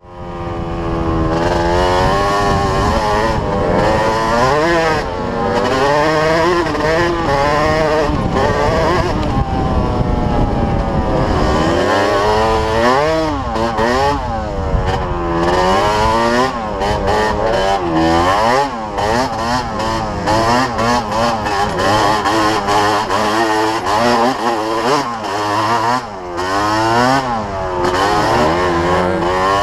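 Yamaha DT125's single-cylinder two-stroke engine being revved over and over, its pitch rising and falling. The revs are slower and more drawn out at first, then become quick blips about once a second in the second half.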